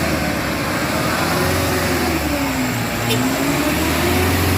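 Heavy truck's diesel engine pulling uphill, its pitch dipping and then rising again.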